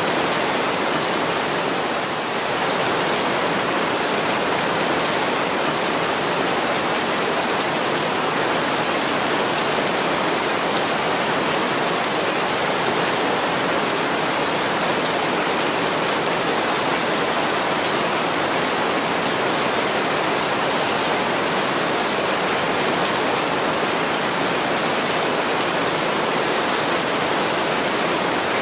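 Heavy rain falling steadily on a window, an even, unbroken hiss.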